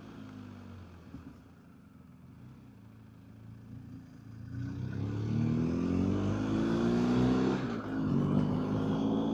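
BMW R1250GSA's boxer twin engine running quietly at low revs, then accelerating hard from about four and a half seconds in. The revs climb, break off briefly near the end, and climb again.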